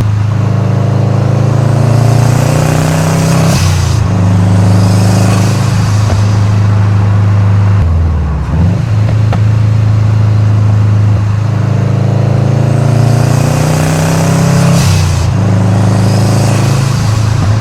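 2013 Subaru WRX's turbocharged 2.5-litre flat-four engine accelerating hard, its note climbing in pitch through each gear and dropping at each upshift, several times over. A high turbo hiss rises along with some of the pulls.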